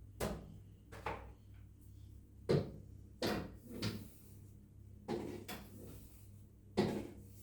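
A run of short knocks and clunks, about eight in seven seconds, from household objects being handled and set down during cleaning.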